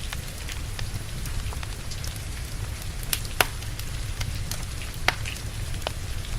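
Wood fire crackling with scattered sharp pops, two of them louder about three and a half and five seconds in, over a steady hiss of rain and a low rumble.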